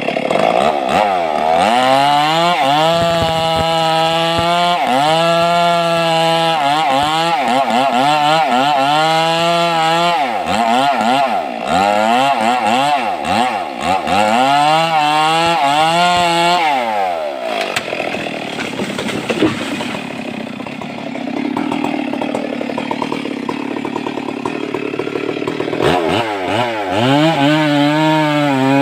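Stihl MS 382 two-stroke chainsaw revving up and dropping back over and over as it cuts wood. It then runs lower and rougher for several seconds before revving up again near the end.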